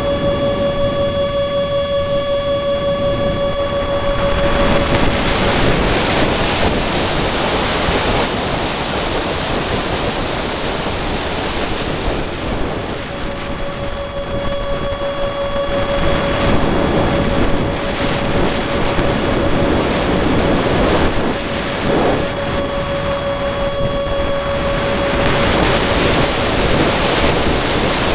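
Electric ducted fan of a radio-controlled A-10 jet model whining at a steady pitch, half buried under strong wind buffeting the microphone. The whine fades out about five seconds in and comes back about halfway through.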